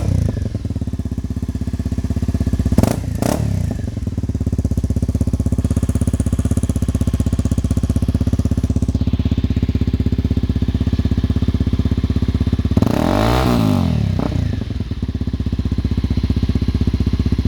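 Honda CRF250L single-cylinder four-stroke engine idling through its exhaust, with two quick throttle blips about three seconds in and one longer rev up and back down a little past the middle.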